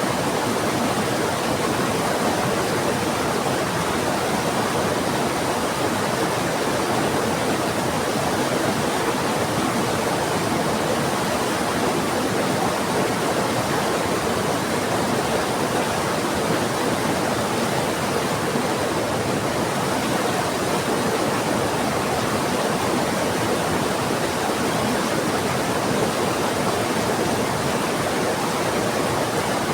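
Heavy rain together with a rushing river, making a steady, even wash of water noise with no breaks or single drops standing out.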